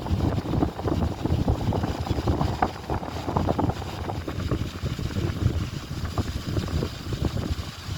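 Wind buffeting the microphone in uneven gusts, a low rumbling that rises and falls.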